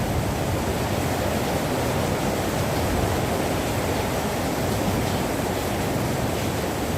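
Rain falling steadily, a dense, even noise.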